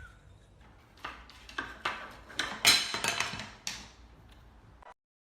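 A series of light clinks and knocks of hard objects, about eight over three seconds, irregularly spaced.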